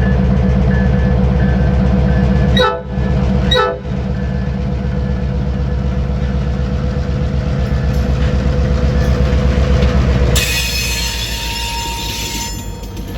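A train going by close up: a heavy, loud rumble of locomotive and rolling cars. From about ten seconds in, high-pitched squealing of steel wheels on the rails rises over the rumble.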